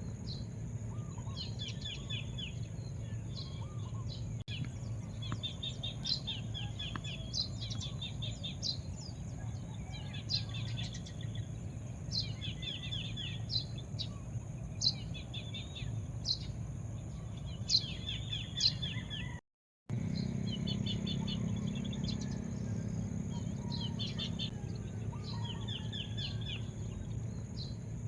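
Birds chirping in repeated quick runs of high notes every second or two, over a steady low background rumble and a constant high-pitched hum. The sound cuts out completely for a moment about two-thirds of the way through.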